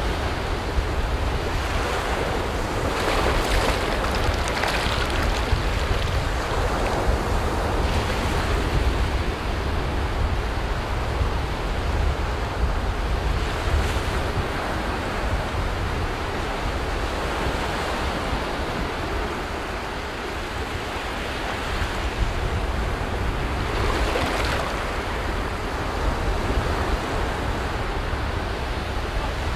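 Ocean surf washing onto a beach: a steady rush of waves with louder swells as waves break every several seconds, over a low rumble.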